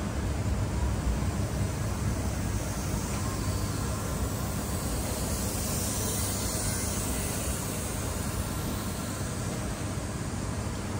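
Steady low rumble and hiss of a VR double-deck InterCity train standing at a station platform under a roof, with no distinct knocks or clicks.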